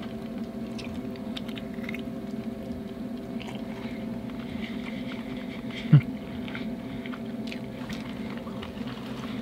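A person biting and chewing chicken wings, with small wet mouth clicks over a steady low hum. One short, louder sound comes about six seconds in.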